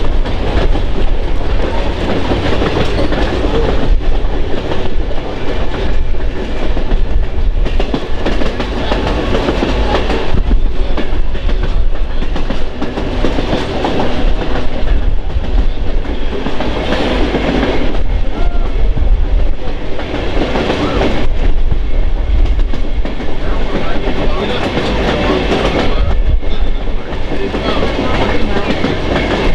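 Train rolling along the track: a steady rumble of wheels on rail with a clickety-clack over the rail joints.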